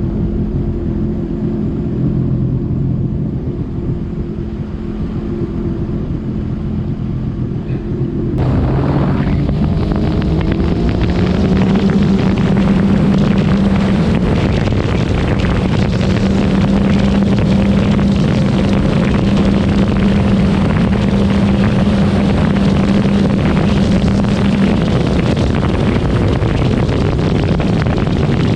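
Supercharged Sea-Doo RXP-X 300 jet ski's engine, fitted with a Riva Racing exhaust, running at a low, steady speed. After a sudden change about eight seconds in, it revs up and runs steadily at high speed, easing lower near the end.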